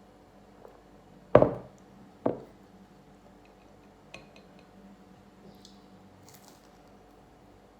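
Two sharp knocks of hard household objects about a second apart, the first louder, each ringing briefly, followed by a few faint clicks and light rustling.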